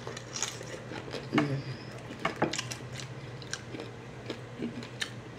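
A person chewing a bite of a crispy fried corn tortilla tostada, with scattered crunches, the loudest about one and a half and two and a half seconds in.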